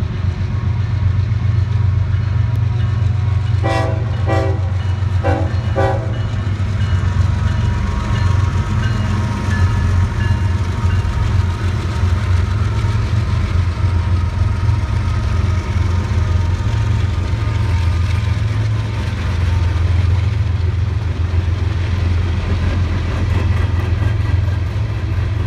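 Norfolk Southern diesel locomotives passing with a loud, steady low rumble, followed by empty coal hopper cars rolling by. The horn sounds several short blasts about four to six seconds in.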